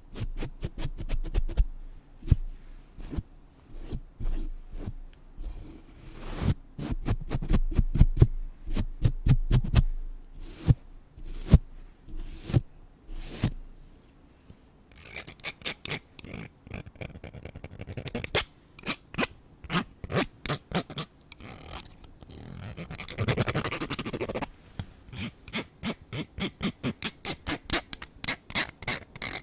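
Close-up scratching and clicking in quick, irregular strokes, with a longer brushing stretch about three-quarters of the way through. A steady high chirring of crickets runs behind.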